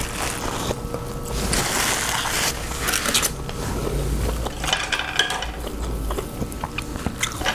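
Close-up eating noises: irregular crunching, crackling and rustling from chewing and handling seafood-boil food.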